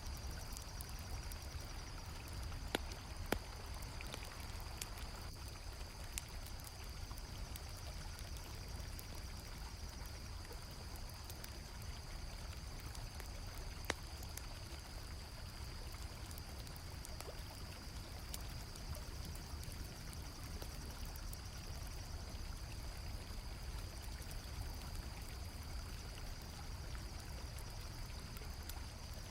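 Mixed night ambience: a river flowing steadily, crickets chirping in a continuous high trill, and a few sharp campfire crackles, two close together a few seconds in and one about halfway through.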